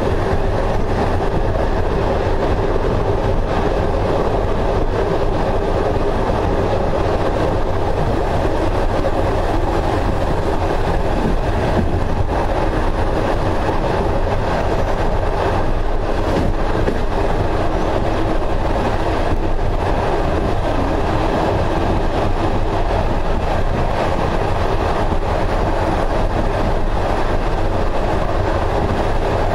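Passenger train carriage running at steady speed: the continuous running noise of wheels on rails and the car body, heard from inside the carriage.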